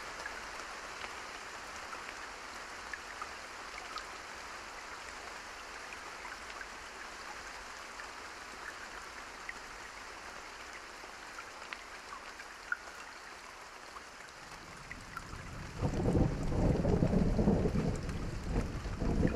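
Steady rain with scattered drop ticks. About fifteen seconds in, a loud, low rolling rumble of thunder builds and keeps going.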